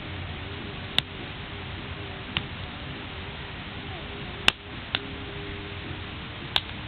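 Wood fire burning with a steady hiss, broken by five sharp pops of crackling wood. The loudest pop comes a little past halfway, followed closely by a second.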